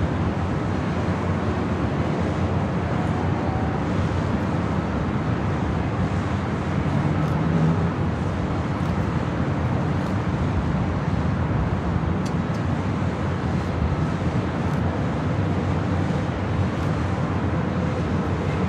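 Steady airport ambience: an even roar of distant engines and traffic noise with no clear events.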